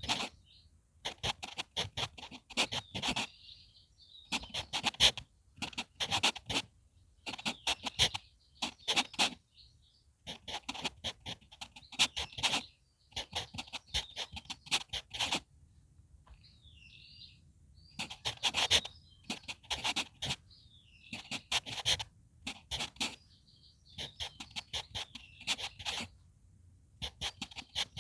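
HB pencil writing on manuscript paper: short runs of scratchy strokes, a cluster every second or two with brief pauses between characters. Birds sing faintly in the gaps.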